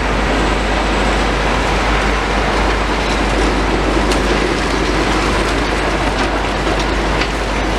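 Heavy demolition machinery working: a steady engine rumble with a continuous rattle and scattered knocks of rubble.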